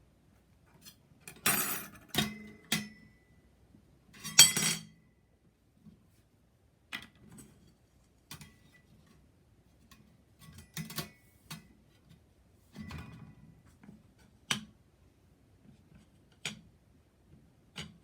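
Thin metal parts of a homemade tower-style fire stand clinking and clattering as they are handled, busiest early on, with the loudest clatter a few seconds in. Single clinks follow at irregular gaps, one or two ringing briefly.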